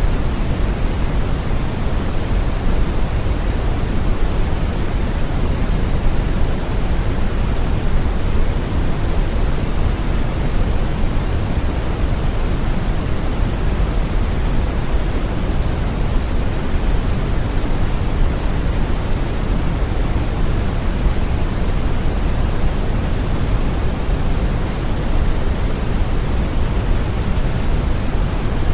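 Brown noise: a steady, even rushing hiss, strongest in the low end and dull in the highs, without change.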